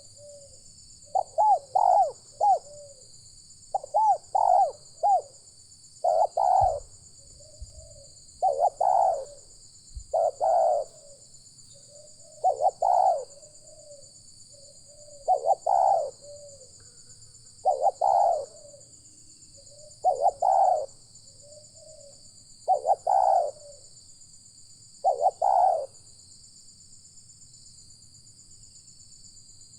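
Spotted dove cooing: a short low coo phrase repeated about every two seconds, a dozen times, stopping about 26 seconds in. A steady high-pitched buzz runs underneath throughout.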